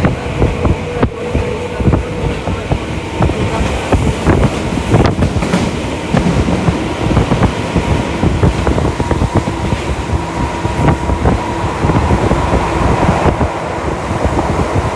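Tokyu Toyoko Line electric commuter train running at speed, heard from inside the car: a steady rumble of wheels on rail with a stream of short clicks and knocks, and a steady whine that grows a little stronger in the later seconds.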